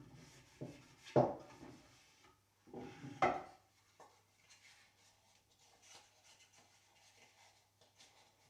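Objects handled on a wooden surface: a few knocks in the first few seconds, the loudest about a second in and near three seconds, then faint rubbing and scraping.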